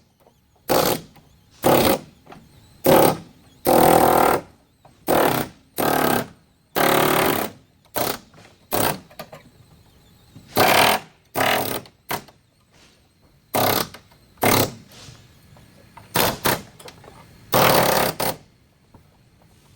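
A power tool worked on car body metal in repeated short bursts, each from a fraction of a second to about a second long, with brief pauses between them.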